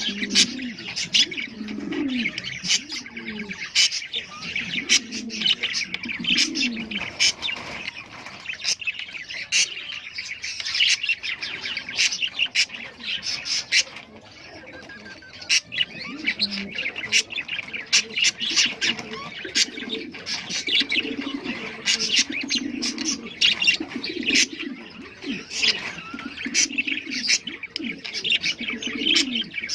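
Lovebirds and budgerigars chattering continuously in their mating calls, with dense sharp chirps over lower rising-and-falling calls.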